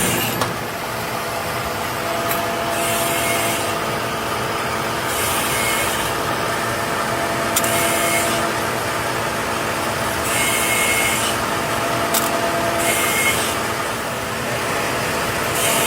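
Workshop machinery running steadily, with a short high hissing, grinding burst about every two to three seconds.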